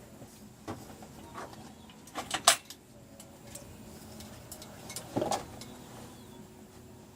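A few sharp knocks and clatters of a wheelchair and its parts being handled, the loudest a quick double knock about two and a half seconds in, another knock about five seconds in.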